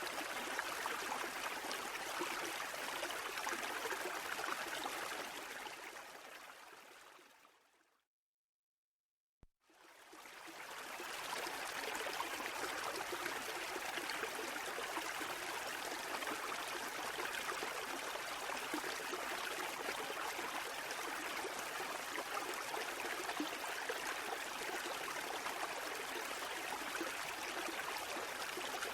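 Steady rushing water that fades out about six seconds in, drops to a second or so of silence with a faint click, then fades back in and carries on evenly.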